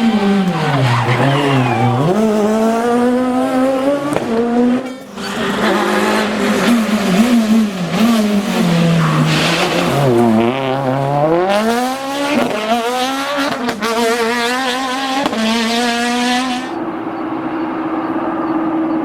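Peugeot 206 Maxi rally car's four-cylinder engine revving hard, its pitch climbing and dropping again and again as the driver accelerates, shifts and lifts. About five seconds in the sound breaks off to another pass, and near the end it changes to a steadier, duller engine note.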